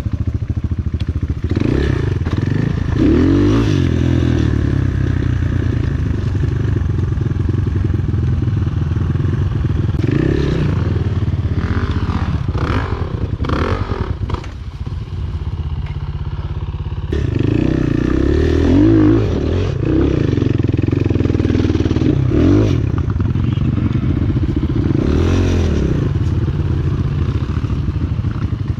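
Enduro motorcycle engine running continuously under riding load, its revs rising and falling every few seconds as the throttle is worked. It eases off to a lower, quieter run about halfway through, then picks up loud again.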